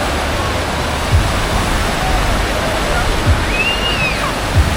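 Steady rushing of water, like surf or a fountain, with a few low thumps.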